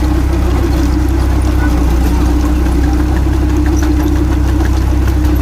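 Tractor engine running steadily at a constant speed with a deep, unchanging hum.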